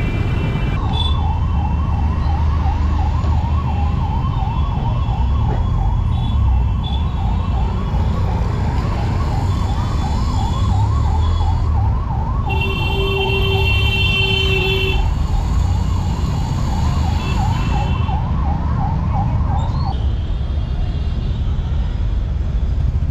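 Emergency vehicle siren yelping in fast rising-and-falling sweeps, about three a second, over steady street traffic rumble; it cuts off near the end. A second, higher-pitched tone sounds for a couple of seconds midway.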